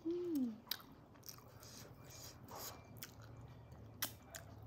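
Close-up eating mouth sounds: wet lip smacks and finger-licking with soft chewing of fried momo, in a few separate clicks and smacks. A brief hummed vocal sound comes right at the start.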